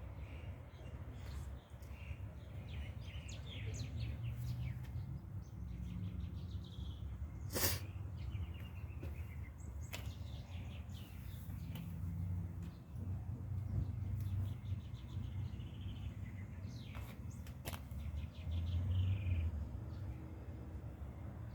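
Small birds chirping in short, repeated calls over a steady low rumble, with one sharp click a little past seven seconds in.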